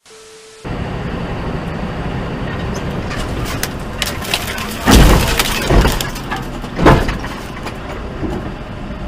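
Vehicle collision: steady road and engine noise, then a loud crash about five seconds in, with cracking and breaking sounds like shattering glass and debris, and a second loud impact about two seconds later.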